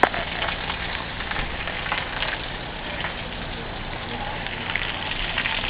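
Heavy rain pouring down in a steady hiss, thick with the patter and splatter of drops hitting the ground, with one sharp click at the very start.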